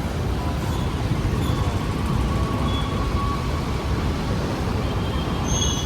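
Steady low rumble of vehicle traffic, with a few faint, brief higher tones, mostly near the end.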